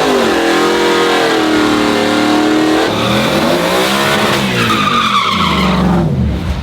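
Drag-racing truck engines at full throttle during a launch down the strip, pitch climbing, dropping back at a gear shift about three seconds in, then climbing again. The engine note falls and the sound drops off near the end.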